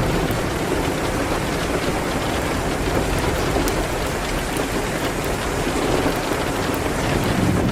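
Steady rain on a window, an even hiss with scattered small sharp ticks. Under it runs a low rumble that swells near the start and again near the end.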